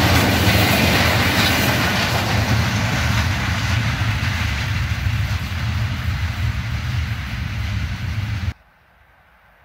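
A passing train's rumble and wheel-on-rail noise, slowly fading as it moves away, then cut off abruptly near the end.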